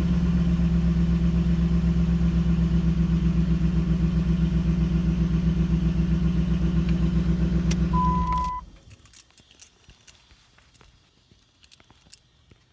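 A 2007 Dodge Ram 1500 pickup's engine idles steadily, then is shut off about eight and a half seconds in. A short, high single beep sounds just before it stops, and a few faint clicks follow.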